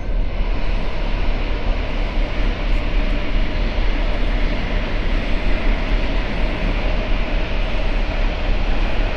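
Passenger train in motion: a loud, steady rumble and rushing noise of the running train.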